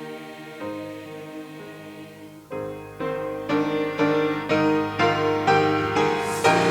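Piano accompaniment playing chords, soft at first, then from about two and a half seconds in struck louder and evenly, about two a second.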